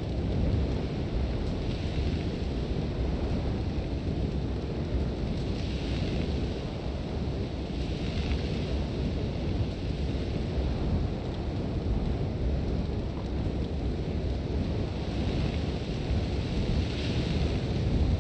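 Sandstorm wind: a steady low rumble with hissing swells of blown sand every few seconds.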